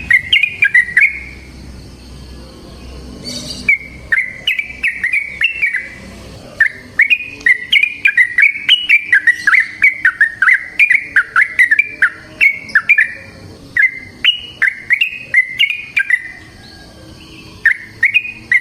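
Yellow-vented bulbul (trucukan) singing phrases of quick, bubbly chirping notes, with a long unbroken run in the middle and short pauses between phrases.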